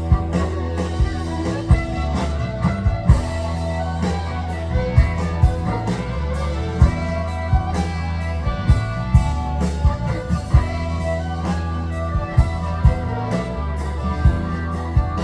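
A live rock band playing an instrumental passage, with guitar over a steady bass line and regularly struck drums.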